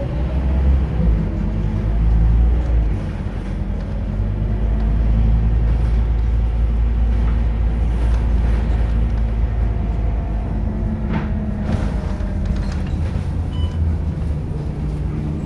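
Scania K230UB single-deck city bus running on the road: a steady low engine rumble with a faint whine that slowly rises and falls in pitch as the bus changes speed, and a few short rattles about eleven seconds in.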